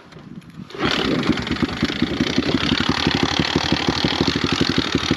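Kawasaki pit bike's single-cylinder engine starts up about a second in, then runs at a steady idle with a fast, even pulse.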